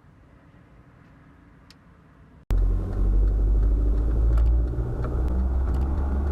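A faint low hum, then, about two and a half seconds in, a loud steady low rumble of a car on the move, with a few light ticks over it.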